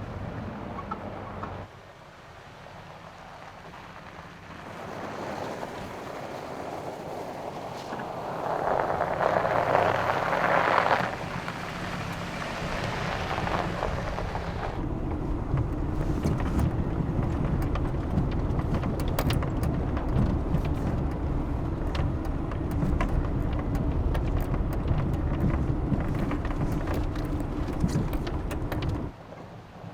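Pickup truck driving on a rough mountain road, heard through several edited shots. In the second half a steady low rumble of engine and tyres is dotted with fine crackles of the tyres over gravel and snow.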